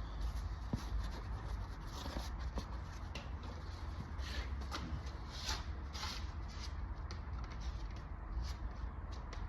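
Spreader scraping and smearing body filler and hardener together in short, irregular strokes, mixing until the hardener streaks are gone. A low steady hum runs underneath.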